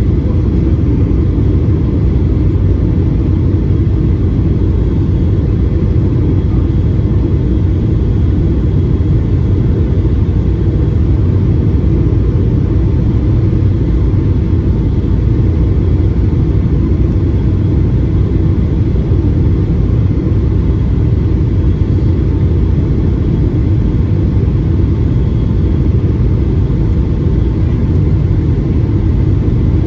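Steady cabin noise inside a Boeing 757-200 airliner in flight: the engines and the airflow make a loud, deep, even rumble, with faint steady whines higher up.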